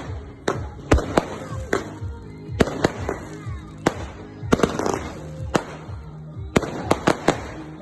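Fireworks going off in rapid succession, a string of sharp bangs several times a second with crackling between them, over music.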